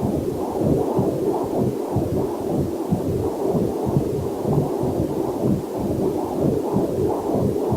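Whooshing, rapid throbbing of a fetal Doppler heart monitor, a muffled heartbeat-like pulsing, with a faint steady waterfall hiss mixed underneath.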